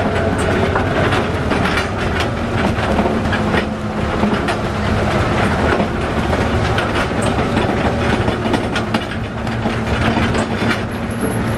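Tractor towing open passenger wagons on the move: the tractor's engine runs steadily under a constant clatter and knocking from the rolling wagons.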